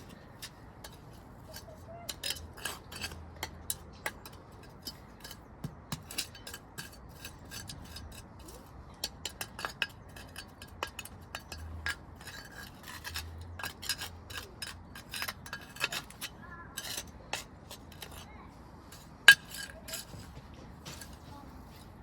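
Brick pavers clinking and knocking against one another as they are handled and set down, many short sharp clicks, with one louder clink near the end.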